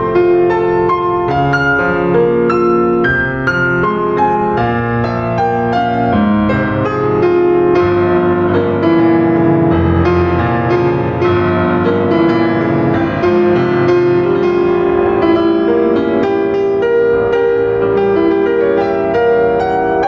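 Background piano music, a flowing melody over sustained chords.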